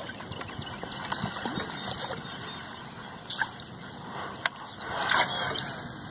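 Water sloshing and gurgling against a kayak hull, with two sharp clicks in the middle and a brief louder swish about five seconds in.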